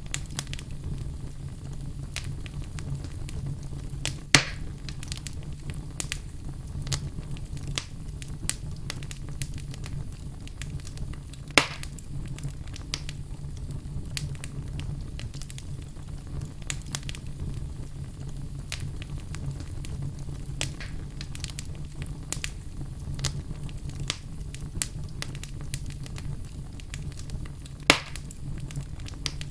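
Wood fire burning in a fireplace, crackling steadily over a low rumble, with three louder sharp pops: about four seconds in, near the middle, and near the end.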